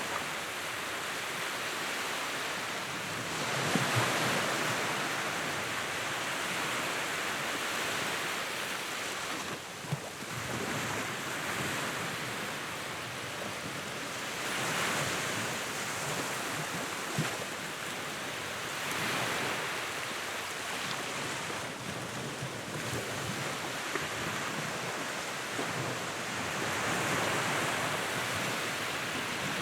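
Wood fire burning in a fireplace: a steady rushing hiss that swells and eases every few seconds, with occasional sharp crackling pops.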